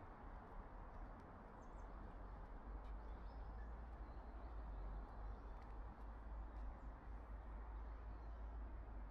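Quiet forest ambience: a low steady rumble of wind on the microphone, with faint bird chirps now and then.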